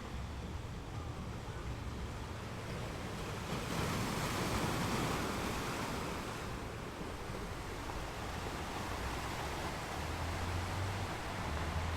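Ocean waves washing onto a beach, a steady surf hiss with one wave swelling louder about four seconds in and easing off a couple of seconds later.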